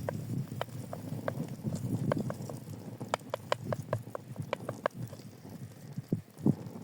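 A run of irregular light clicks and knocks, several a second, over a low background rumble.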